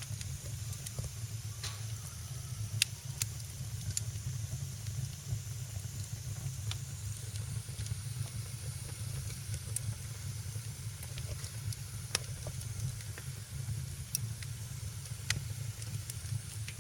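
Wood fire in a fireplace crackling: a steady low rumble and soft hiss with irregular sharp pops, the loudest about three seconds in.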